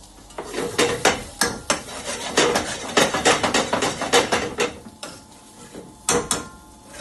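A spoon stirring and scraping chicken in a pan, knocking repeatedly against the pan for several seconds. After a short pause come two sharp knocks near the end.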